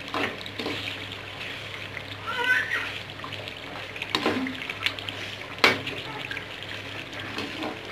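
Chicken karahi gravy sizzling in the pan as a slotted metal spoon stirs it. There are three sharp clinks of the spoon against the pan, the loudest about five and a half seconds in.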